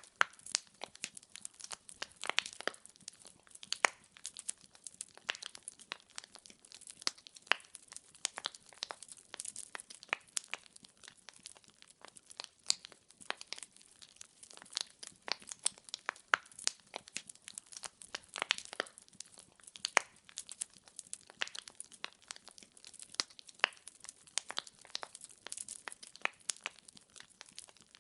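Firewood burning in a fireplace, crackling with many sharp pops and snaps at an irregular pace, several each second.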